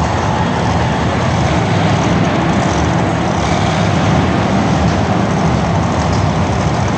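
Monster truck engine running loudly and steadily, a deep heavy rumble with a hiss over it.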